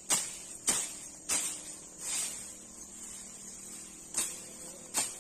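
About six sharp knocks at uneven intervals, over a steady high-pitched insect drone.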